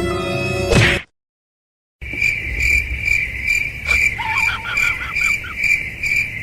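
Orchestral music cuts off about a second in, then after a second of silence a cricket chirps steadily at a bit over two chirps a second, with a few faint short squeaks in the middle.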